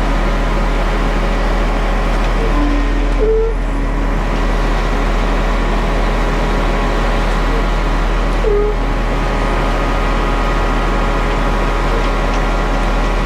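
Concrete mixer truck's diesel engine running steadily as the truck creeps along at walking pace, heard from the cab. Two brief short tones sound over it, about five seconds apart.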